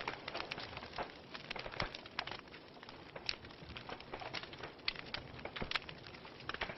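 Wood fire burning in a fireplace, crackling and popping with irregular sharp snaps over a steady soft hiss.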